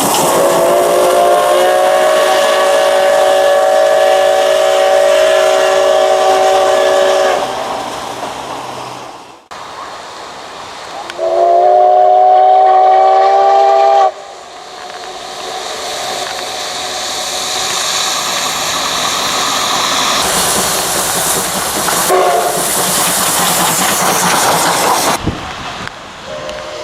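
Steam locomotive whistle of the SL Ginga (JNR C58 239) sounding a long blast of about seven seconds, then a shorter blast of about three seconds. A loud rush of steam hissing follows for around ten seconds, broken by a brief whistle toot.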